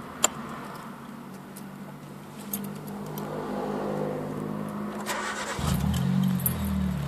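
Samsung SM3 car engine and exhaust running steadily, then accelerating about five seconds in, the note growing deeper and louder. A single sharp click sounds in the first second.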